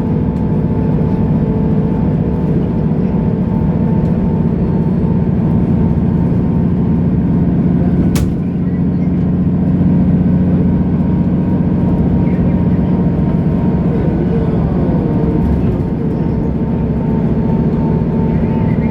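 Mercedes-Benz O530 Citaro Facelift Ü bus engine running steadily as the bus drives, with a single sharp click about eight seconds in.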